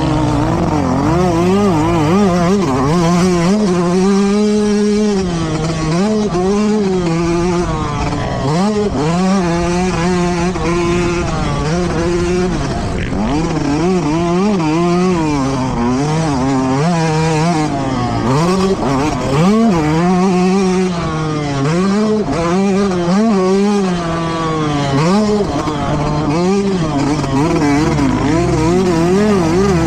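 Motocross bike engine revving hard and continuously, its pitch climbing and dropping again and again with throttle and gear changes around the track.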